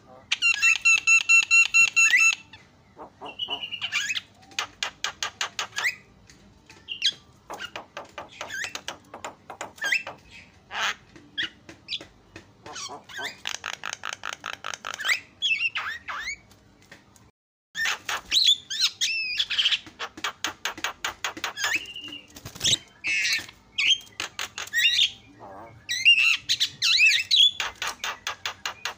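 Javan myna (jalak kebo) singing a loud, varied song: fast trains of repeated chattering notes mixed with whistled and harsh phrases, with a held ringing note near the start. The song stops for an instant about halfway and then carries on.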